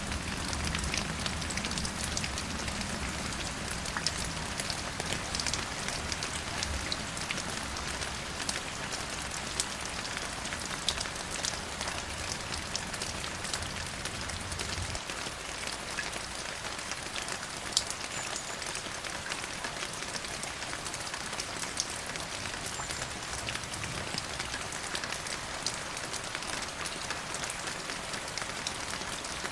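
Steady rain falling, with many small drops ticking on a surface and now and then a louder drop. A low rumble underneath stops about halfway through.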